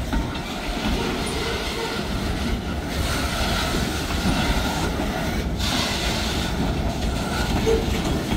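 Slow-moving freight train of lumber-loaded centerbeam flatcars rolling past, steel wheels running steadily on the rails at a crawl.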